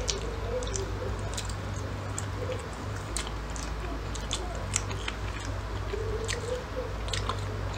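Chewing and biting of people eating takoyaki, with wet mouth sounds and scattered sharp clicks at irregular moments, over a low steady hum.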